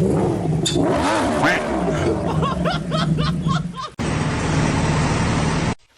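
A vehicle engine running steadily under excited voices. About four seconds in, it cuts to a steady hiss and hum that stops suddenly near the end.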